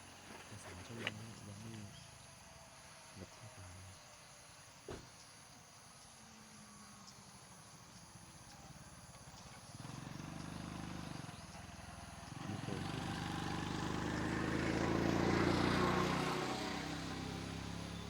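A vehicle approaching along the road and passing close by: engine and tyre noise building from about halfway through, loudest near the end, then starting to fade. A few faint knocks come earlier.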